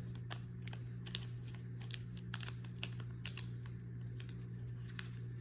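Light, irregular clicks and taps of small plastic parts and packaging being handled, over a steady low hum.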